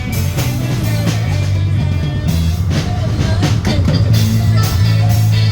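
A band playing rock music, with a drum kit keeping a steady beat over guitar and a heavy bass line.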